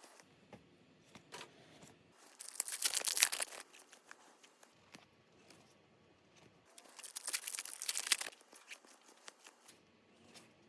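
Foil Pokémon booster pack wrappers being torn open, crinkling and crackling, in two bursts of about a second each, with faint handling clicks between them.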